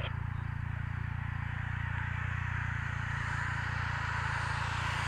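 Roadside traffic noise: a steady low rumble, with the tyre and engine noise of an approaching vehicle growing louder toward the end.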